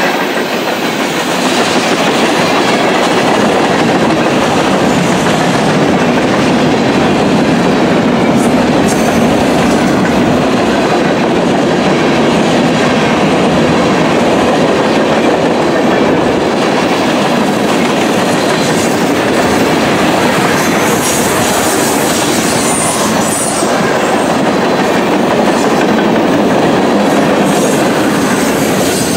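Mixed freight train cars (tank cars, covered hoppers and coil cars) rolling past close by: a loud, steady rumble and clatter of steel wheels on the rails.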